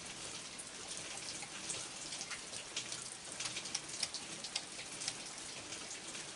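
Steady rain falling, with many single drops ticking sharply through the hiss, thickest about three to five seconds in.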